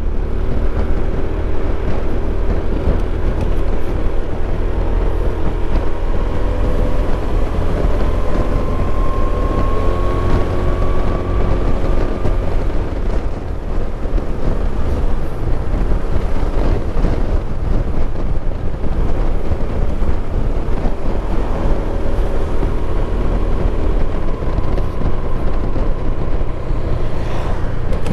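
Motorcycle engine running on the move, its pitch rising slowly for a few seconds around the middle, under heavy wind buffeting on the microphone.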